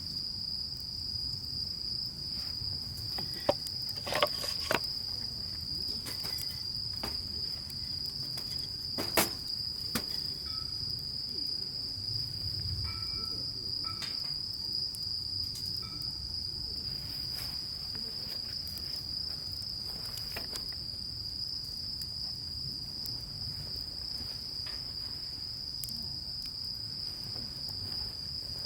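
Insects chirring steadily in one unbroken high tone, with a few sharp clicks or knocks about four and nine seconds in.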